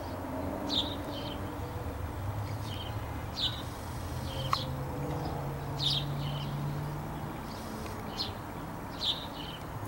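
Birds chirping: short high chirps repeat about once a second over a low steady hum.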